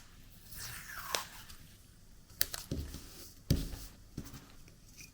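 Washi tape being pulled off the roll and torn on a 3D-printed plastic cutter: a soft rasp of tape peeling in the first second or so, then a few sharp small clicks and knocks as the tape and cutter are handled.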